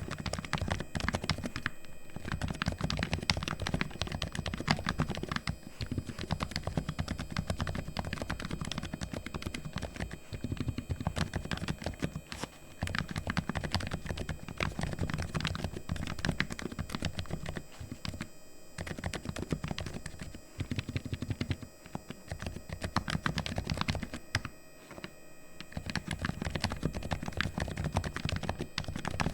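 Typing on a Razer Huntsman V2 Linear keyboard whose linear optical switches have been fully lubricated: rapid, continuous keystrokes with a few short breaks.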